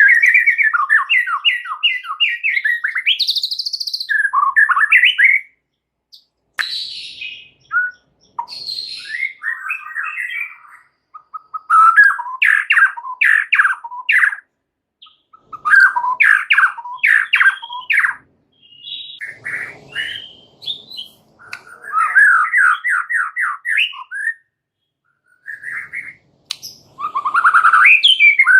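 White-rumped shama (murai batu) singing a loud, varied song: phrases of rapidly repeated notes and quick up-and-down slurs, coming in bursts with short pauses between them.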